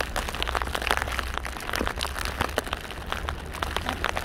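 Footsteps crunching in deep snow: a quick, irregular run of crackles and crunches over a steady low rumble.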